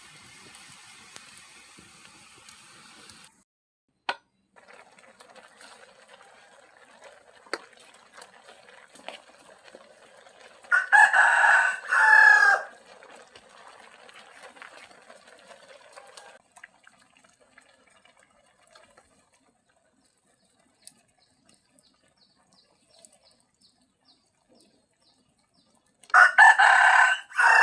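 A rooster crows twice, loud, with strong pitched calls: once about eleven seconds in and again near the end. Between the crows there is a faint hiss with scattered small clicks.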